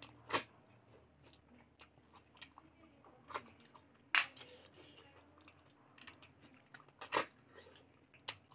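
Close-up mouth sounds of a person eating pork and rice by hand: wet chewing with sharp smacks and crunches, loudest about half a second, three and a half, four and seven seconds in.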